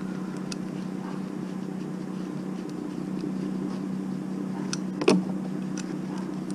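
Steady hum of an idling vehicle engine, with scattered light clicks and one sharp knock about five seconds in.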